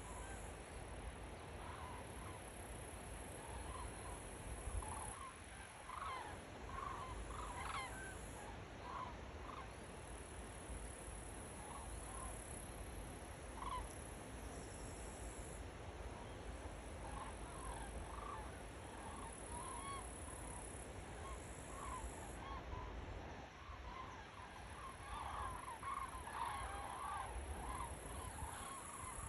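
Birds calling: short honk-like calls come on and off, busiest about six to eight seconds in and again near the end, over a steady high hiss.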